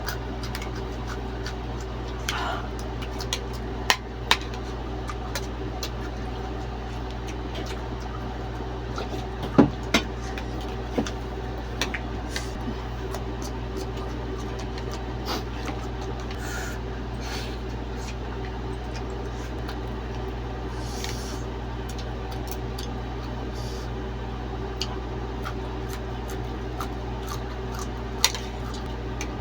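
Eating at a table: scattered clicks and knocks of utensils and dishes, at irregular times, over a steady low hum.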